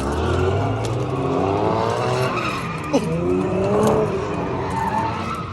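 Car engine revving hard with tires squealing, the pitch rising and falling over and over, over a steady low engine rumble. A single sharp crack about three seconds in.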